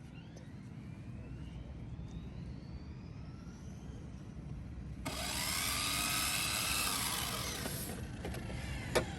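Electric RC car motor whining, its pitch climbing as the car speeds up. It gets louder about five seconds in for roughly three seconds, and there is a sharp click near the end.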